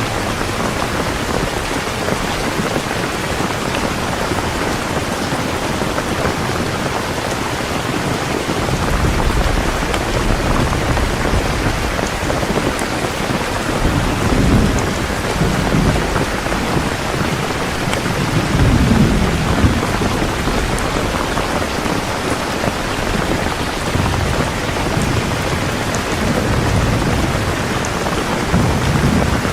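Heavy rain falling steadily in a dense, even hiss, with low rolling rumbles of thunder swelling up and dying away several times.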